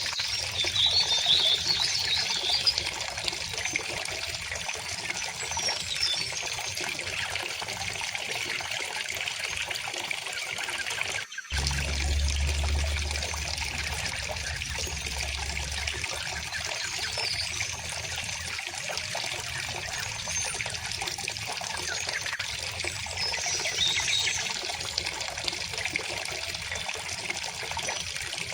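River water trickling and flowing steadily over stones, with small birds chirping now and then above it. About eleven seconds in the sound cuts out for a split second, and a low rumble follows for a few seconds.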